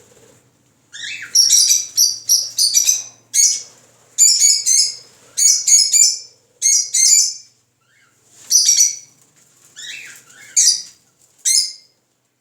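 Small birds chirping: loud, high, short chirps in quick clusters of three or four, separated by brief pauses.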